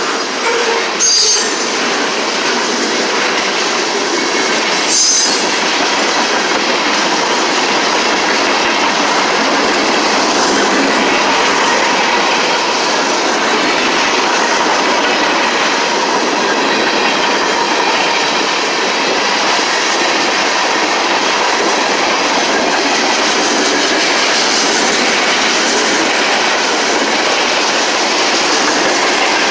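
Freight cars of a passing freight train rolling by, a steady rush of wheels on rails with a faint steady high tone through it. Two sharp knocks come about a second and five seconds in.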